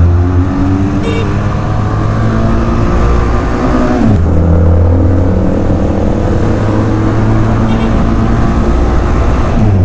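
Motorcycle engine, the rider's Benelli TRK 502X parallel twin, running hard under load during an overtake. The steady engine note breaks off briefly about four seconds in, then settles back at a new pitch.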